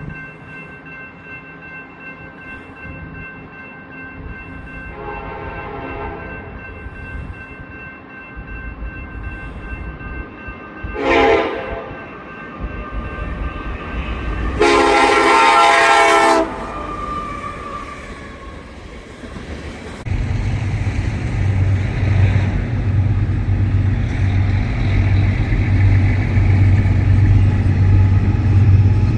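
Train horn sounding as a train approaches: a faint blast about five seconds in, a short one with a falling pitch near eleven seconds, and a long loud blast around fifteen seconds. From about twenty seconds in, the locomotive's engine rumbles loudly as it comes by.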